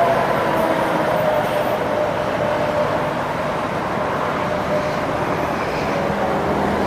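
Heavy truck traffic passing: a steady rush of engine and tyre noise, with a faint tone that slowly falls in pitch as a vehicle goes by.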